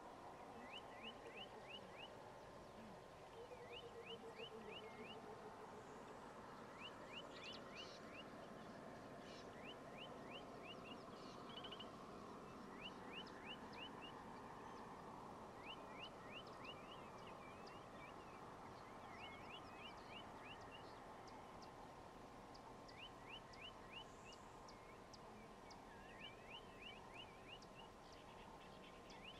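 Faint bush ambience with birds calling: short series of four to six quick high notes, repeated every few seconds.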